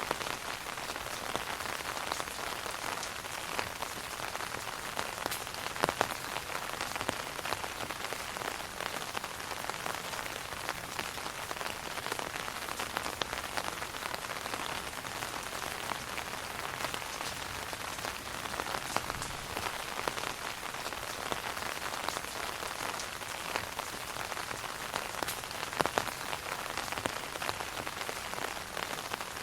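Steady rain falling on an umbrella overhead: a dense, even hiss of many small drop taps, with a few louder single drops standing out about six seconds in and near the end.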